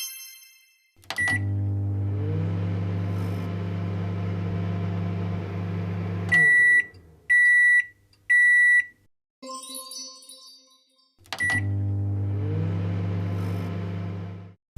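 Microwave oven: a click and a button beep, then the steady hum of it running for about five seconds, ending in three loud beeps as the cycle finishes. After some clatter it is started again with a beep and hums on until just before the end.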